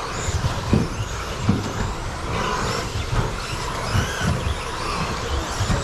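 Electric 1/10-scale stadium trucks with 13.5-turn brushless motors racing on an indoor carpet track. Several motor whines rise and fall in pitch as the trucks accelerate and brake, over repeated low thumps.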